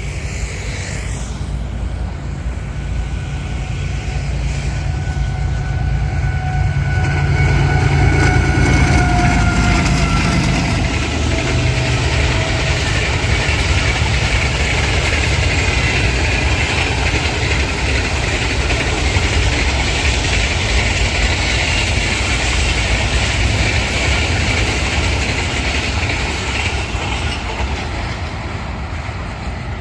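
Express train passing at speed, hauled by a diesel locomotive. The locomotive's engine rumble and whine are loudest about eight to ten seconds in and sag in pitch as it goes by. The coaches then roll past with a steady rush of wheels on rail, which eases off near the end.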